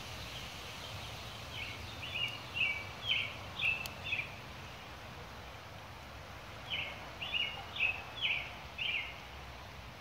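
A songbird singing two phrases, each a quick series of about seven or eight short, clear, high notes: one starting about a second and a half in, the other near seven seconds. Under it is a steady background hiss.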